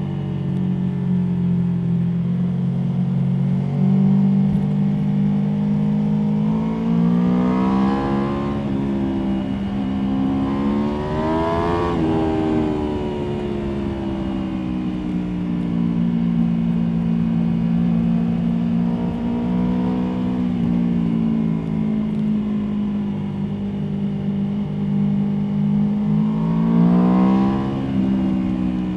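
Aprilia Tuono V4 motorcycle's V4 engine heard onboard while riding. The revs hold steady at first, climb under acceleration to a peak about twelve seconds in, then fall back and settle, and rise again briefly near the end before dropping.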